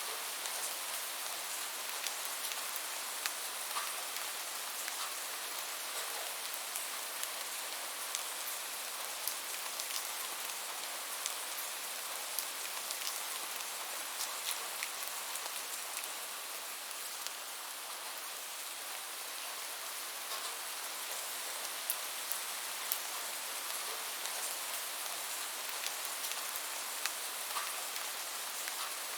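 Steady rain falling, a constant hiss with frequent sharp ticks of single drops striking a surface.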